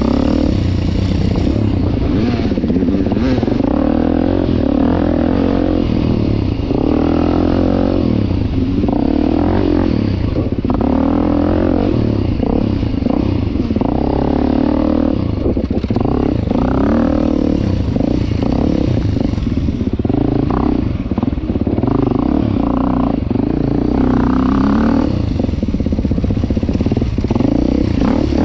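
2023 Beta 390 Race Edition's single-cylinder four-stroke engine being ridden hard, its pitch rising and falling every second or two as the throttle opens and closes.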